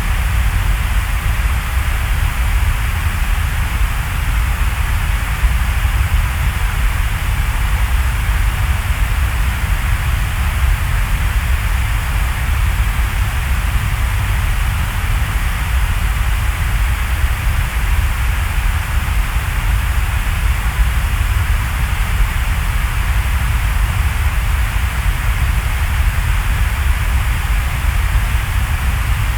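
Steady rain: an even, unbroken hiss with a deep low rumble beneath it.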